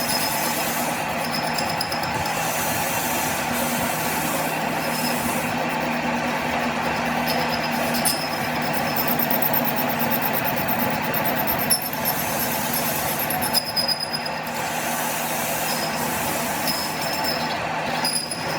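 Workshop machinery running steadily on metal, with a high metallic whine that comes and goes and a few sharp knocks.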